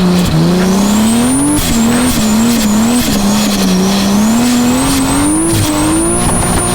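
Toyota Aristo's 2JZ straight-six running hard during a drift, its revs climbing early on, then rising and falling with the throttle while held high, with a brief dip near the start.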